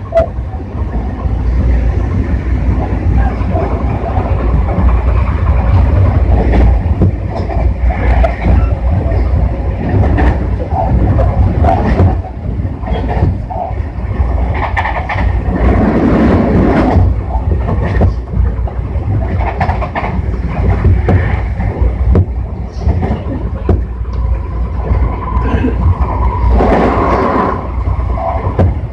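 Tobu 60000 series electric train running at speed, heard from inside the car: a steady low rumble with the wheels clicking over rail joints, and a higher steady tone joining near the end.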